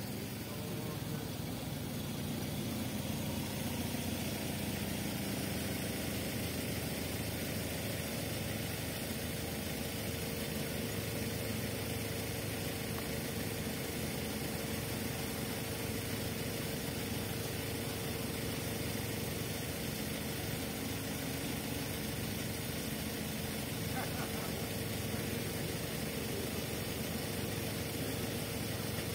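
A car engine idling steadily close by, growing louder over the first couple of seconds as the car draws up and stops.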